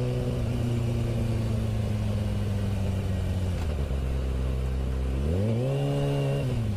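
Honda Hornet motorcycle engine running, its pitch steady and slowly easing off, then revving up sharply about five seconds in and dropping again near the end as the throttle is closed or a gear changes.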